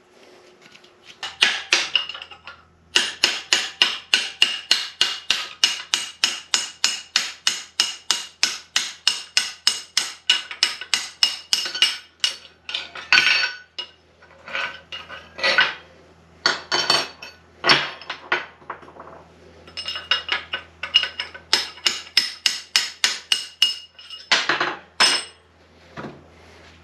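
Hammer striking steel parts of an NP205 transfer case during teardown: a fast, steady run of ringing metal blows, about five a second. After that, scattered groups of heavier strikes.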